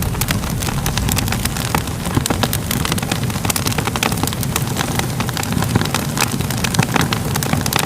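Wood fire crackling: many small sharp pops and snaps over a steady low rumble of burning.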